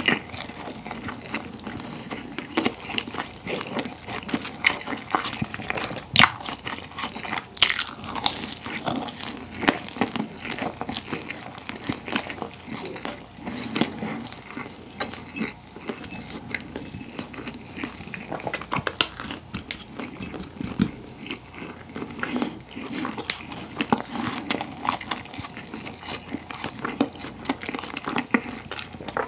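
Close-miked chewing of a crusty pollock roe baguette topped with rice, the crust crackling in many sharp, irregular crunches between softer, wetter chewing.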